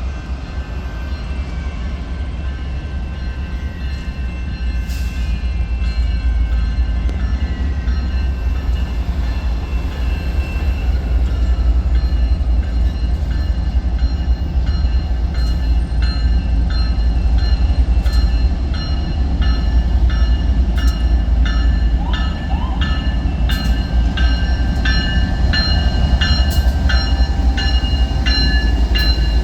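A train running by, its heavy rumble growing louder over the first dozen seconds. From about halfway there is a fast, regular ticking with ringing tones.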